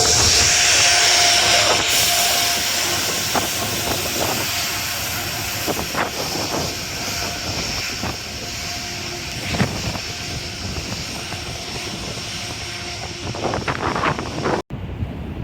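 Metro-North train running past and moving away: a steady rushing rumble that slowly fades, with scattered clicks of wheels over the rails.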